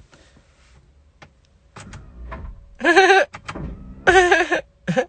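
A person's high, wavering vocal squeals, twice, about three and four seconds in.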